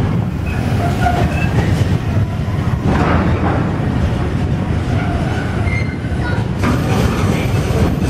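Container freight train's flat wagons rolling past at close range: a steady, loud rumble of wheels on rail, with brief high squeals now and then.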